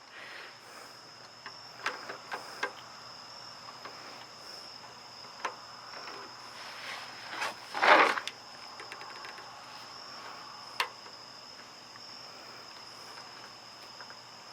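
Crickets chirring in one steady high note, broken by a few sharp clicks, like tools or metal parts knocking, and one brief, louder rush of noise about eight seconds in.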